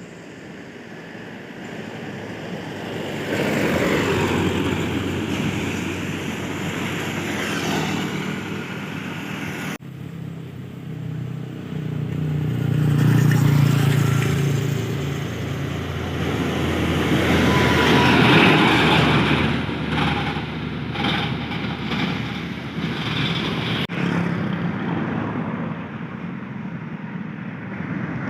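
Truck engines running and driving by, the sound swelling and fading several times, with an abrupt cut about ten seconds in.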